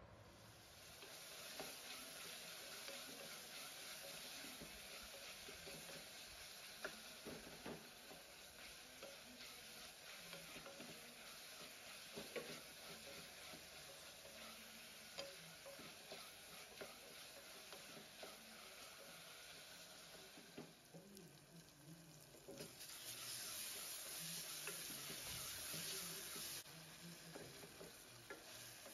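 Vegetables sizzling in hot oil in an aluminium pressure cooker as a wooden spatula stirs them, with scattered scrapes and taps of the spatula against the pot. The sizzle grows louder for a few seconds near the end.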